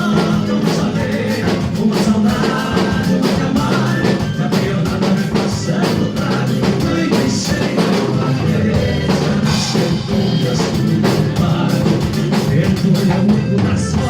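A band playing live with a drum kit, and a voice singing over it.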